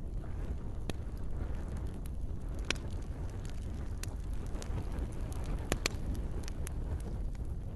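Campfire crackling: sharp pops and snaps of burning wood, a few seconds apart with a close pair about six seconds in, over a steady low rumble.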